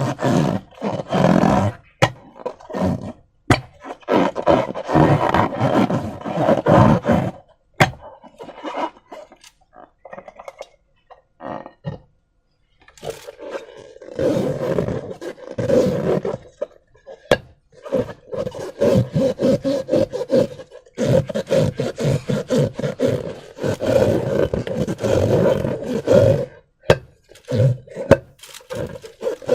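Slime being squished and worked by hand: wet squelching and crackling with sharp little clicks and pops. It goes quiet for a few seconds about a third of the way in, then starts again.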